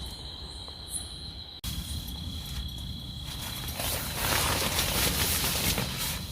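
Crickets chirring in a steady high trill. After a sudden break about a second and a half in, the trill fades and a louder rustling hiss builds up.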